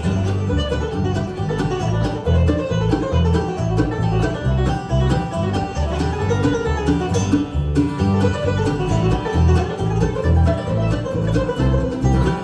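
Live bluegrass band playing an instrumental break, with banjo and guitar picking over a bass line.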